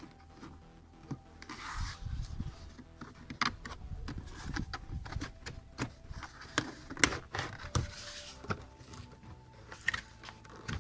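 Car boot trim and carpet lining being worked loose by hand: irregular sharp plastic clicks and knocks with bursts of rustling as the panel is pulled at its clips.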